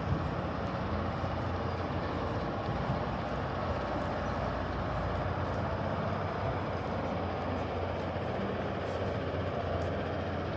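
Steady city traffic noise: a continuous low rumble and hiss of vehicles on the street, with no clear pass-by.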